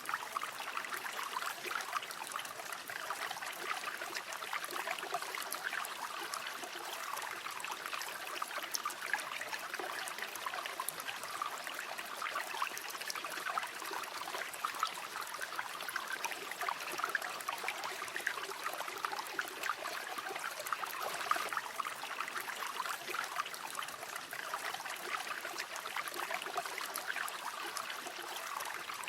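A shallow river flowing steadily, with a dense trickling and babbling of water over stones.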